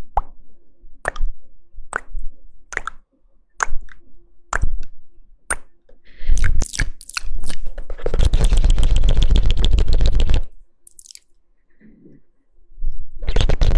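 ASMR mouth sounds close to the microphone: single wet mouth pops about once a second, then a quick run of pops, then a couple of seconds of dense, wet crackling. After a short lull the crackling starts again near the end.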